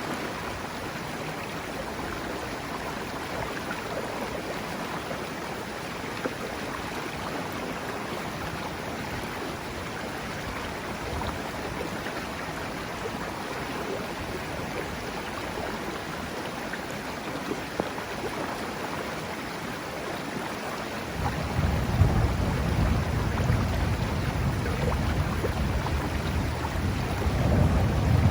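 River water rushing steadily. About three-quarters of the way through, a deep rumble of thunder rises and rolls on, louder than the water.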